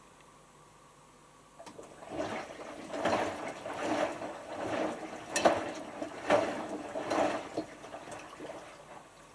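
Hotpoint HF8B593 washing machine drum turning during the rinse, water and laundry sloshing in it in surges about once a second. It starts about a second and a half in and stops shortly before the end: one tumble between pauses.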